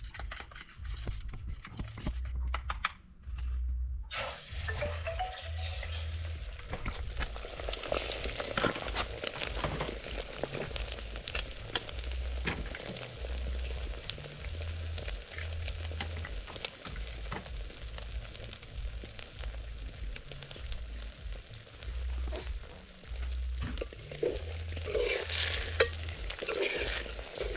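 Food frying and sizzling in a pan while it is stirred and scraped with a utensil, starting about four seconds in, over a low, uneven rumble.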